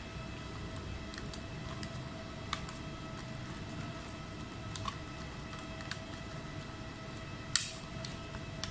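Small clicks and taps of tools being handled at a repair bench, over a steady electrical hum with a few faint steady tones; the loudest click comes near the end.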